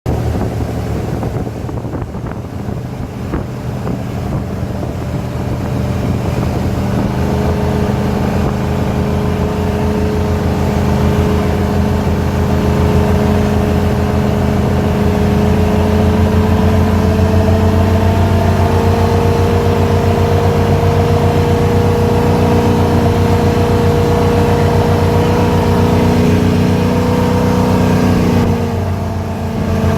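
Motorboat engine running under way, its pitch climbing gradually over the first several seconds as the boat speeds up, then holding steady. Near the end the engine eases off briefly and then picks up again.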